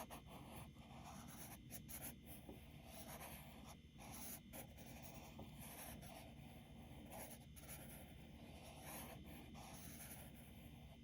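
Faint scratching of charcoal stroked repeatedly back and forth over drawing paper, shading an area dark.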